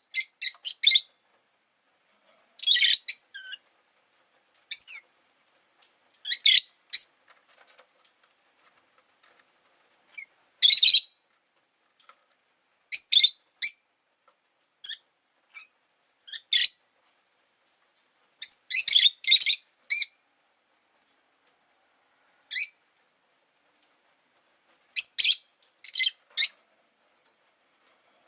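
Rosy-faced lovebirds (peach-faced lovebirds) chirping: short, shrill, high-pitched calls in quick clusters every second or two, with brief quiet gaps between.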